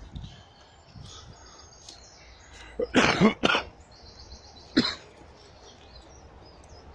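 A man coughing: a quick run of rough coughs about three seconds in and a single cough near five seconds, with faint birds chirping.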